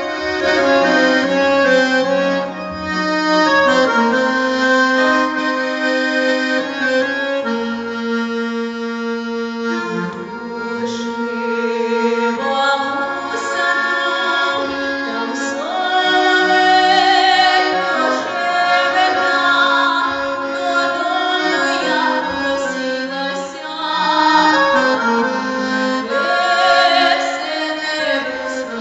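Accordion playing an instrumental passage between sung verses: a melody over held chords.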